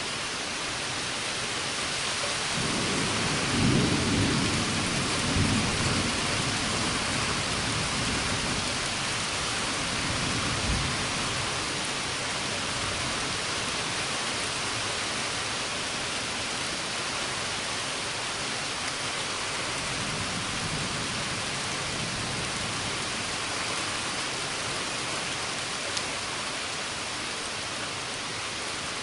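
Steady heavy rain falling, with a long roll of thunder a few seconds in that swells twice, and a fainter rumble of thunder around ten seconds in.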